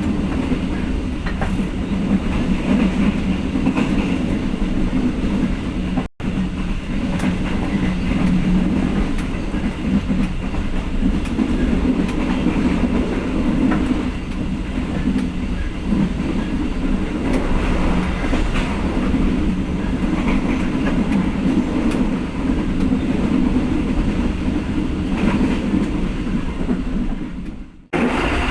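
Passenger train running along the line: a steady loud rumble of the coach and wheels on the rails. The sound cuts out for an instant about six seconds in and again near the end.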